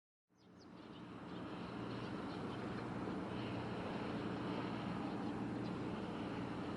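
Steady low drone of a container ship under way, mixed with wind noise, fading in over the first couple of seconds. A couple of faint high chirps near the start.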